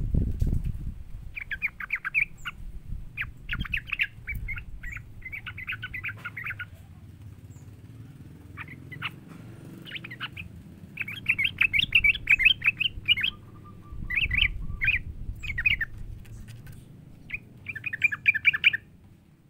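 Yellow-vented bulbul (trucukan) calling: quick chattering chirps in repeated bursts with short pauses between them, over a faint low background rumble.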